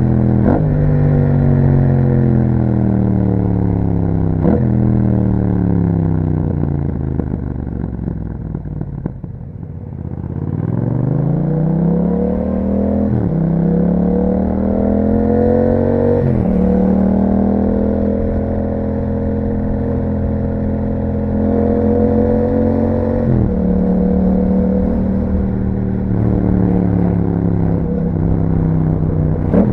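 2021 Yamaha MT-07's parallel-twin engine through an Akrapovic exhaust: the revs fall off for the first ten seconds as the bike slows on the throttle-off, then it accelerates, the pitch climbing and dropping sharply at upshifts about 13, 16 and 23 seconds in, and runs steady between them.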